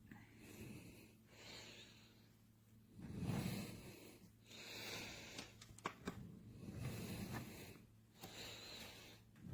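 A person breathing close to the microphone in soft, regular swells, with a few light clicks in the second half and a faint low hum underneath.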